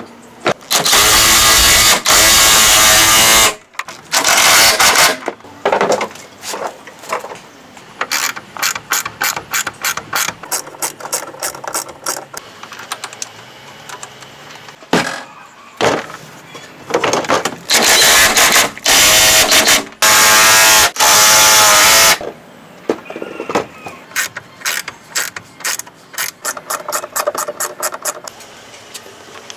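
Hand ratchet clicking in quick runs, broken by several loud bursts of a power tool, each lasting one to two and a half seconds.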